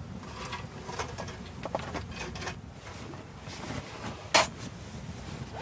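Scattered small clicks and knocks of camp gear being handled, with one sharp click about four seconds in, over a low steady rumble.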